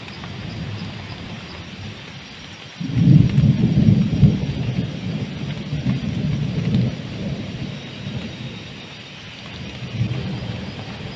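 Heavy rain falling steadily, with a roll of thunder that breaks in suddenly about three seconds in, rumbles low for several seconds and fades; a smaller rumble swells near the end.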